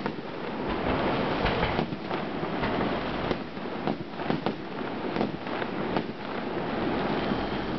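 Fireworks display: a quick string of bangs and crackles over a continuous rumbling roar from the barrage.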